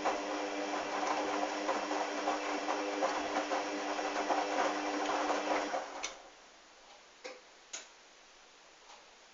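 Hoover washing machine's drum turning during a sudsy wash cycle: a steady motor whine over rapid tumbling, which stops about six seconds in. Two sharp clicks follow.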